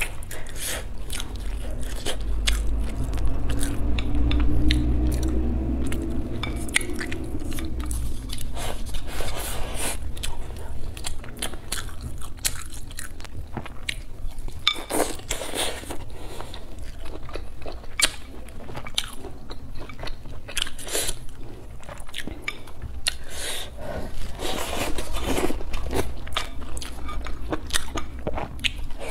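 Close-miked eating sounds from a plate of braised chicken, potato and green chilies: bites, crunching and wet chewing with many small mouth clicks. A low hum sounds a few seconds in.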